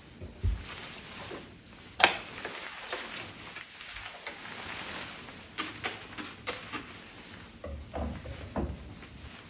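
Scattered clicks and knocks of kitchen items being handled: a low thump, one sharp click about two seconds in, a quick run of small clicks midway, and a few softer knocks near the end.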